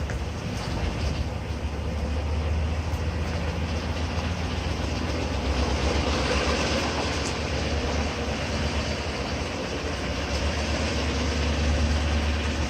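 Ford engine running steadily with a rapid, rhythmic ticking.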